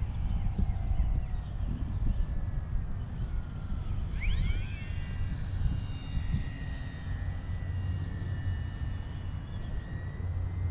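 Brushless electric motor and propeller of a Volantex Sabre 920 R/C plane whining in flight. The whine is faint at first, sweeps up in pitch as the throttle opens about four seconds in, then holds steady, over the rumble of wind on the microphone.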